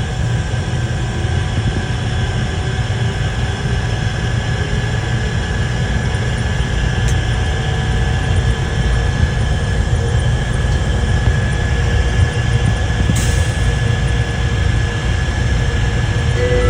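Automated airport people-mover train running between stations, heard from inside the car: a steady low rumble with a constant high whine.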